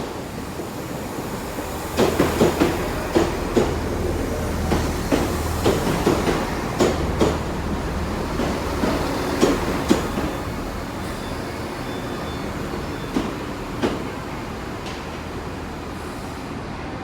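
Class 166 Turbo diesel multiple unit moving slowly past: a steady low diesel drone with a run of sharp wheel clicks over rail joints and points, thickest through the middle and thinning out near the end.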